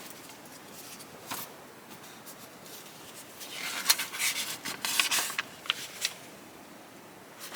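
Rustling and a few light clicks of something being handled, bunched in the middle of the stretch.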